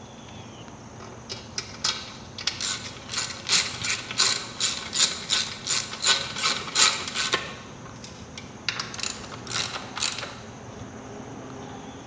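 Ratchet socket wrench clicking in quick, even strokes as it tightens an exhaust-pipe bolt: one long run, then a shorter one.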